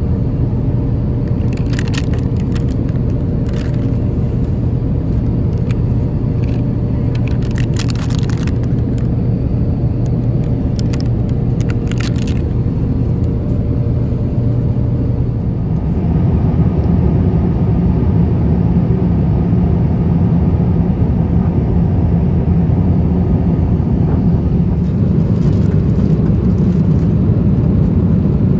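Steady low rumble of an Airbus A350-1000's engines and airflow, with a few light clicks in the first half. About 16 seconds in, the rumble turns deeper and louder.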